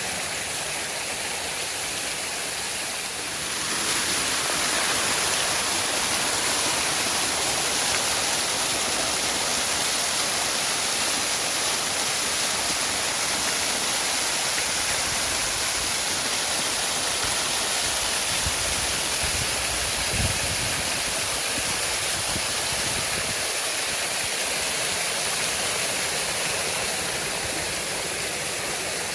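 Waterfall: a steady rush of falling, splashing water that gets a little louder about three seconds in.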